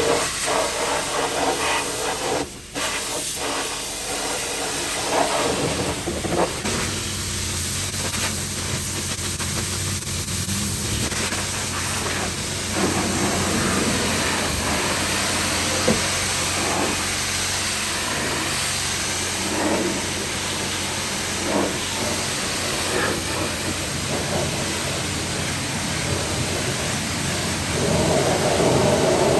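Steady hissing noise over a low machine hum, with a few short knocks.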